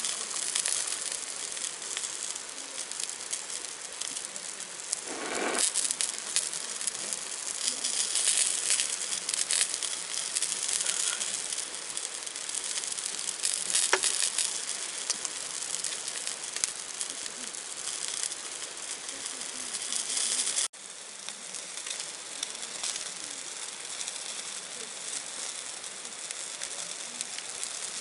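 Food sizzling in a hot pan over a small wood fire: a steady hiss thick with fine crackles, cutting out for an instant about two-thirds of the way through.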